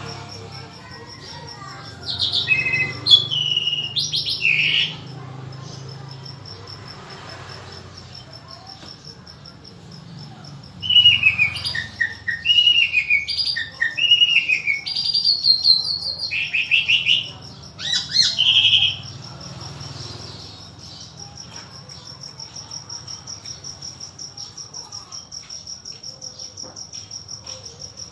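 A songbird singing in two bouts of quick sweeping whistled notes, one about two seconds in and a longer one from about eleven to nineteen seconds, over a steady high pulsing insect-like trill.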